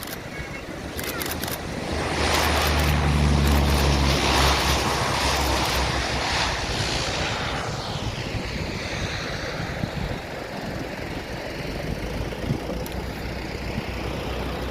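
An aircraft passing overhead: its engine noise swells over the first few seconds, peaks with a steady low hum, then drops in pitch and fades as it moves away.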